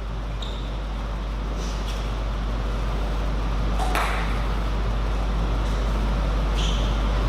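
Steady low hum of background noise with a few scattered sharp ticks of a table tennis ball, the loudest about four seconds in.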